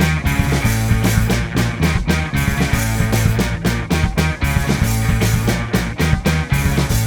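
Rock band playing an instrumental intro: drum kit keeping a steady beat over held bass notes and electric guitars.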